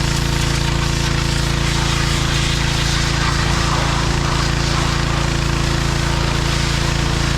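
John Deere 1025R compact tractor's three-cylinder diesel engine running steadily while working the 260B backhoe.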